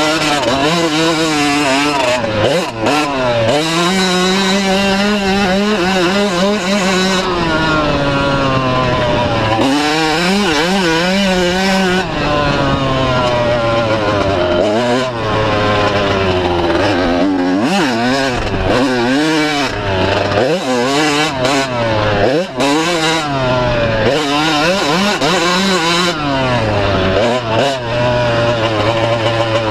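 125cc two-stroke motocross bikes racing, their engines revving up and down through the gears with the pitch continually climbing and dropping, several engine notes overlapping.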